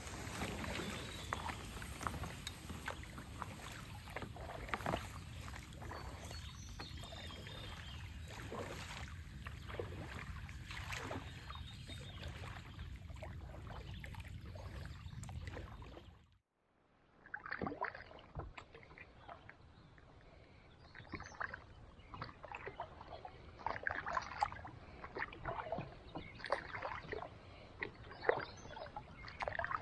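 Kayak paddling: the paddle dips and splashes in the water, with drips between strokes. About halfway through, the sound cuts out for a moment, then comes back quieter with sparser splashes.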